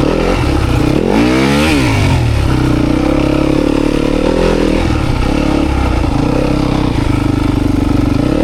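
Dirt bike engine running while being ridden off-road, revving up and back down about a second in, then running steadily.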